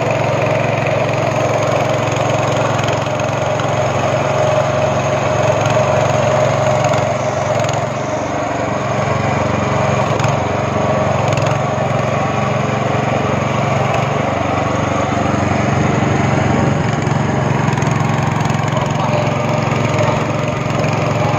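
Speedboat engine running steadily, a constant mechanical drone with no change in speed.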